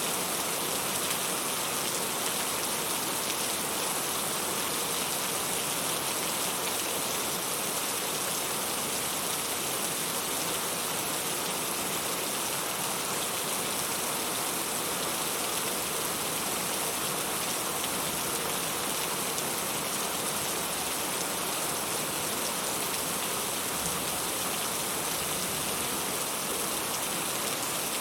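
Steady, unbroken rainfall, an even hiss of many drops with no thunder or music.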